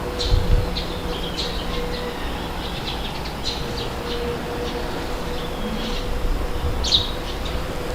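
Small birds chirping in short, scattered calls over a steady low rumble of wind, with a faint steady hum underneath.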